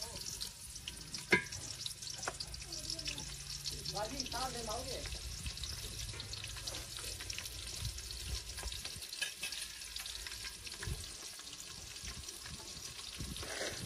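Chopped onion sizzling in hot oil in a steel pot, a steady hiss, with the ladle clinking against the pot, one sharp clink about a second in. This is the gravy base of onion, tomato and green chilli being started.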